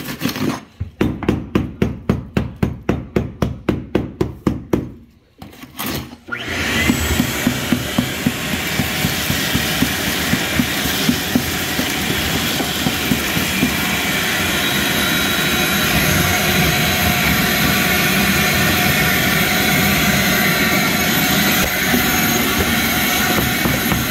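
Hammer driving a small masonry chisel in fast, even blows, about five a second, chipping out old ceramic tile and thin-set mortar. About six seconds in, a shop vac starts and runs steadily, with sharp clicks over it for a few seconds after it starts.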